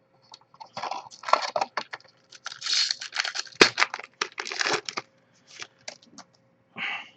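Trading cards and a foil card-pack wrapper being handled: a busy run of irregular crinkles, rustles and sharp card clicks, densest in the middle and thinning out near the end.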